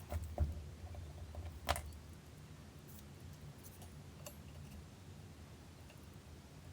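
A few light clicks and knocks of small metal tools being handled, the sharpest about a second and a half in, followed by a few faint ticks.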